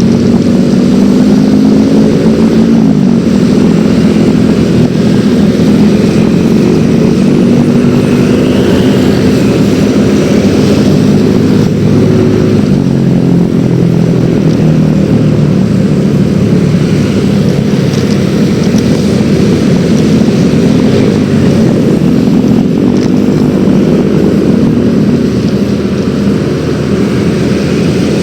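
Yamaha X-Ride 113cc scooter's single-cylinder engine running while riding, its pitch shifting up and down with the throttle.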